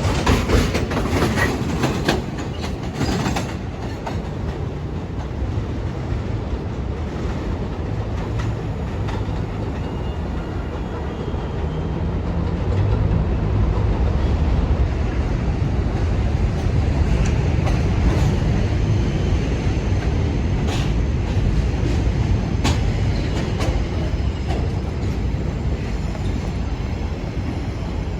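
New York City subway train running through the station, its wheels clattering over rail joints for the first few seconds, then a steady low rumble that grows louder in the middle and eases off, with a few sharp clicks near the end.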